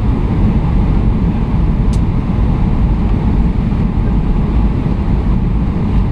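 Steady cabin rumble of a Boeing 757 airliner, heard from inside the passenger cabin, with a single faint click about two seconds in.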